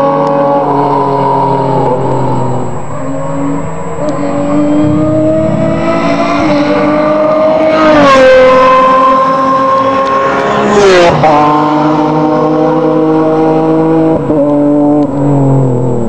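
Racing car engines at full throttle on a circuit, their exhaust note rising and falling with the revs. Two loud pass-bys come about three seconds apart, each with the pitch swooping down as the car goes by.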